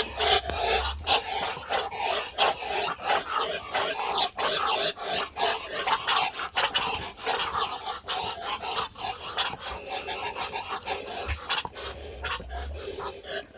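Pet poultry males calling, a rapid, continuous chatter of short calls that eases off a little near the end.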